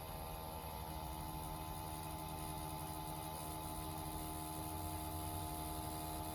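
CNC Q5 rotary tattoo pen running with a steady electric hum while a line is pulled on practice skin with a 7 round liner.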